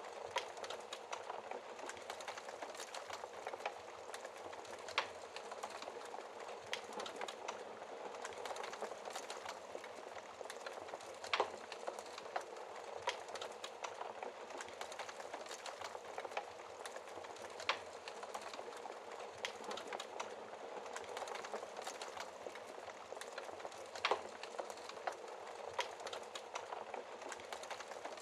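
Wood fire crackling in a fireplace: a steady hiss of burning with many small pops, and a louder snap about every six seconds.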